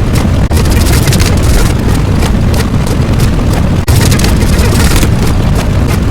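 Loud, dense rumbling noise with rapid crackling throughout, a layered sound effect; it dips briefly about half a second in and again about four seconds in.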